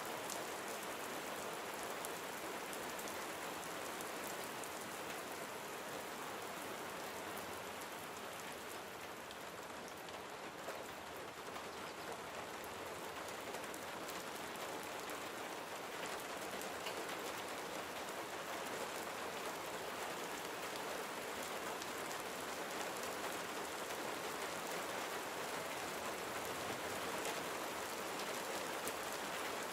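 Steady rain falling and pattering on surfaces, with fine drop ticks through a constant hiss; it eases slightly about a third of the way in and builds a little towards the end.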